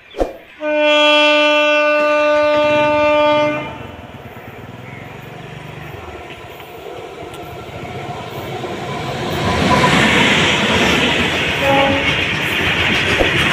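Indian Railways WAG-9 electric freight locomotive sounds one steady horn blast of about three seconds, just after a sharp click. The train's rumble then grows as it draws near, and its loaded freight wagons clatter past over the rail joints.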